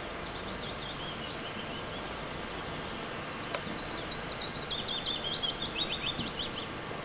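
Songbirds singing: short high chirps and quick trilled phrases, with a busier, louder run of notes about five to six seconds in, over a steady outdoor background hiss.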